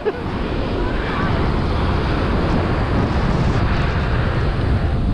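Strong wind buffeting the microphone in a steady low rumble, with breaking surf behind it.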